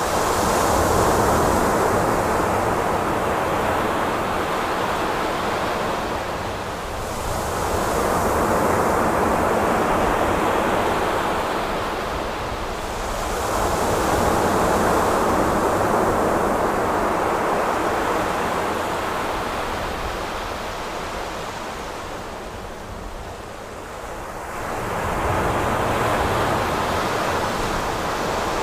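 Waves breaking on a shore, each swelling and fading about every six to seven seconds, over a faint steady low hum.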